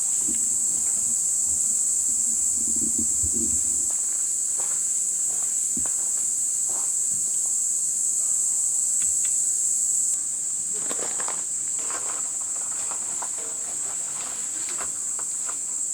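Steady high-pitched chorus of insects, crickets or cicadas, shrilling without a break, slightly quieter about ten seconds in, with scattered faint clicks and rustles.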